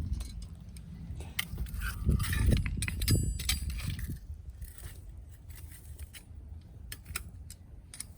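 Wood fire crackling, with scattered sharp pops from the burning firewood and a few dull knocks and a clink about two to three seconds in.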